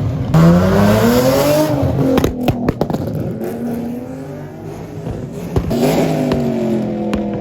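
A car engine revving: its pitch climbs sharply then drops back, and climbs again near the end.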